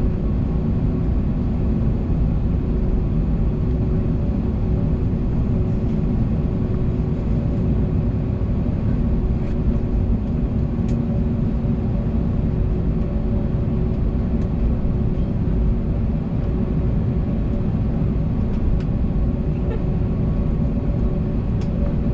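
Airbus A321neo cabin noise on the ground after landing: a steady low rumble with the engines idling while taxiing, with a few steady hum tones and a few faint ticks.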